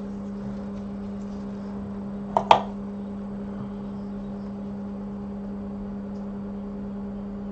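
Steady low electrical hum from repair-bench equipment, with two sharp clicks close together about two and a half seconds in.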